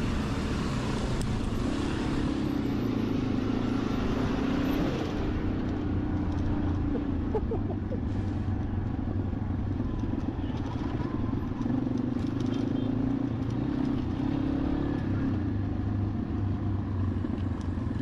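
Motorcycle engine running while riding in a low gear, its pitch rising and settling back twice.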